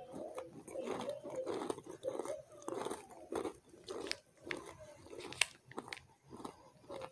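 Close-miked chewing of crunchy food: irregular crunches and chews with a few sharp crisp snaps, the loudest about five and a half seconds in.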